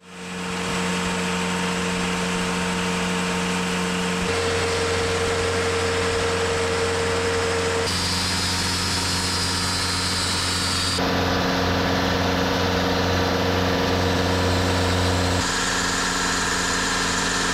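An engine running steadily. Its tone changes abruptly about every three to four seconds.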